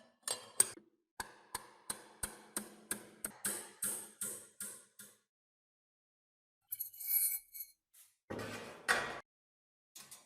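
A run of light metallic taps and clinks, about three a second for some four seconds, each with a faint ring, from metal fan parts being worked by hand. About seven seconds in there is a short hiss, then a louder scraping rustle lasting about a second.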